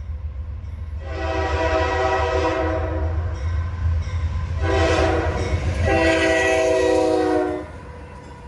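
Locomotive multi-chime air horn blowing the grade-crossing signal: a long blast about a second in, a short one near the middle, then a final long blast that cuts off near the end. A steady low rumble of the train runs underneath.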